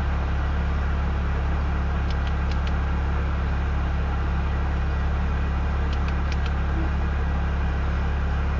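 Slow-moving freight train's cars rolling past at walking pace: a steady low rumble and drone, with a few faint metallic clicks about two seconds in and again about six seconds in.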